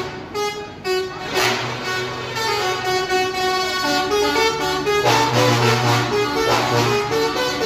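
Truck horns honking, with several horn tones overlapping and stepping between pitches, and a low horn tone coming and going.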